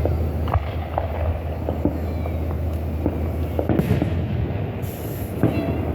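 Fireworks going off: a run of scattered sharp pops and crackles over a steady low rumble, with a louder cluster of bursts about two-thirds of the way through.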